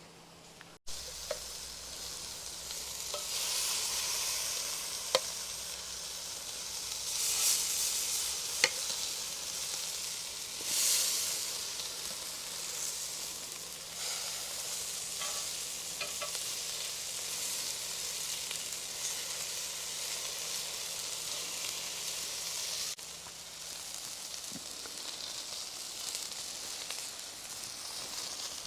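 Peppers, onions and sausages sizzling on a hot cast iron griddle. The frying hiss swells and eases a few times, with a few sharp clicks.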